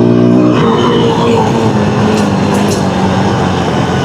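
Honda dirt bike engine running. The revs drop about half a second in, then it runs steadily at a lower pitch that sinks slightly.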